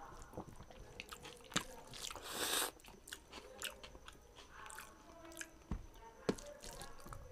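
Close-miked mouth sounds of a man eating rice and curry with his hand: wet chewing and lip smacks with small clicks throughout, and one brief louder noisy burst a little over two seconds in.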